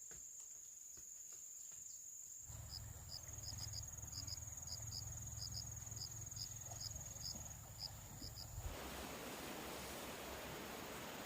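Insects, crickets among them, trilling: a steady high-pitched trill runs throughout, and short high chirps repeat irregularly, about two a second, through the middle of the stretch. The background noise changes abruptly twice.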